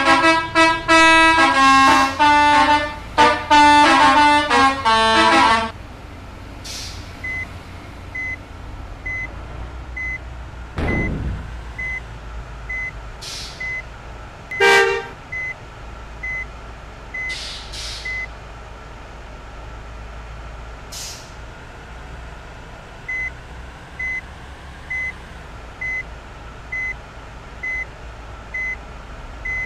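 A bus's telolet musical horn playing a quick tune of several notes for about the first six seconds. Then a high beep repeats about once a second over a low engine rumble, with a few short hisses and a brief horn toot about halfway through.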